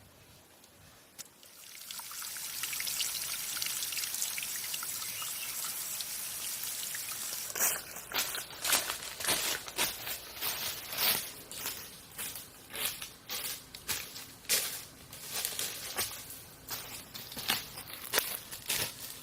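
Water pouring steadily for about six seconds. Then comes a run of irregular sharp clicks and knocks.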